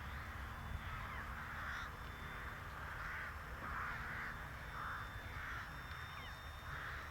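Crows cawing repeatedly, a run of harsh calls spaced about half a second to a second apart, over a steady low wind rumble on the microphone.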